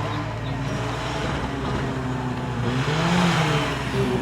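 A tuff truck's engine running hard on an off-road course. It revs up about three seconds in, then eases off slightly.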